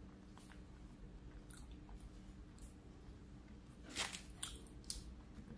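A person chewing fried food close to the microphone, with soft faint crackles, then a louder cluster of crisp crackles and clicks about four seconds in as a fried egg roll is picked up from the paper towel.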